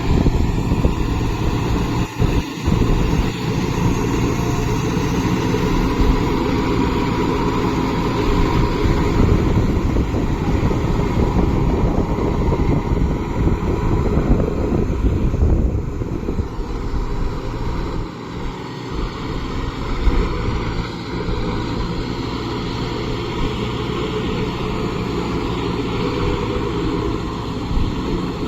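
Kubota MU5502 tractor's diesel engine running steadily under load while it works a rotavator, with a couple of brief dips in level.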